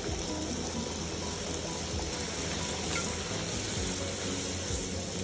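Poori deep-frying in hot oil: a steady sizzle.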